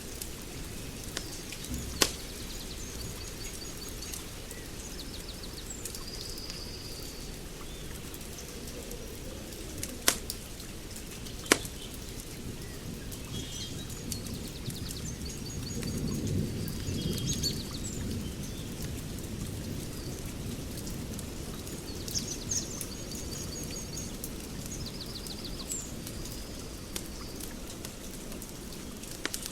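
Fire crackling over a steady low hiss, with three sharp pops, while birds chirp in short repeated trills and a low rumble swells up about halfway through.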